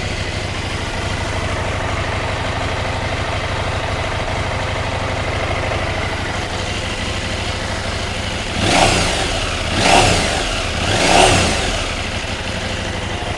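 KTM 790 Adventure's parallel-twin engine idling through its stock exhaust, then revved three times near the end, short throttle blips about a second apart that rise and fall in pitch.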